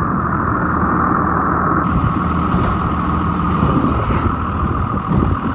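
Cummins diesel engine of a 2001 Sterling dump truck idling steadily. A steady hiss joins it about two seconds in.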